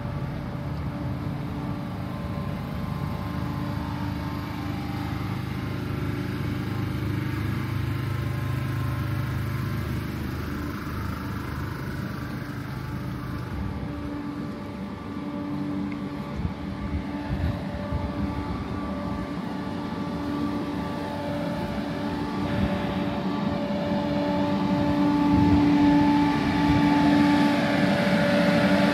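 The Ghan passenger train's stainless-steel carriages humming steadily, a mechanical hum with several steady tones that swells louder in the last few seconds.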